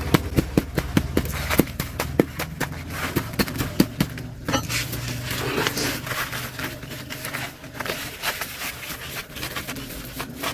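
Sharp, irregular crackling from a rooster being singed over an open fire, its feathers and skin burning. The crackles come fast for the first few seconds, then thin out.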